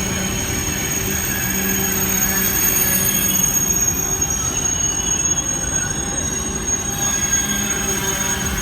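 Train moving along the platform: a steady, loud running noise of wheels on rail, with a few faint sustained tones over it.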